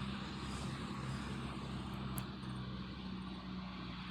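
Steady low motor hum under an even hiss: outdoor night ambience with a distant engine or road noise. A faint high tick about two seconds in.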